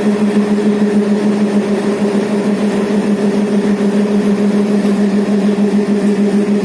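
Diesel locomotive engine running steadily at idle, a constant hum that does not change.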